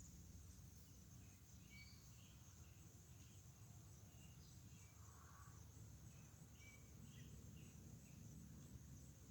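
Faint outdoor ambience: a steady high-pitched insect drone, with scattered short bird chirps.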